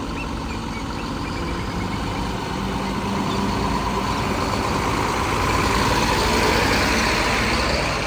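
Diesel tipper truck engine running, growing steadily louder over the first six seconds or so before easing slightly.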